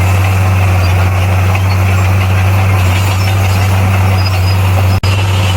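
Bulldozer's diesel engine running steadily with a constant low drone. The sound drops out for an instant about five seconds in.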